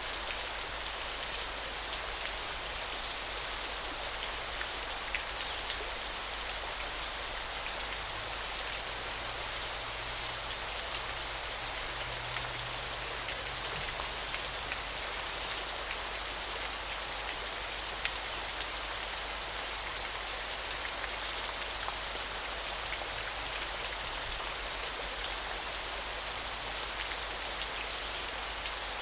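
River water rushing and splashing in a steady dense hiss. A high, even buzz comes and goes in bursts of one to three seconds during the first five seconds, then returns from about twenty seconds in.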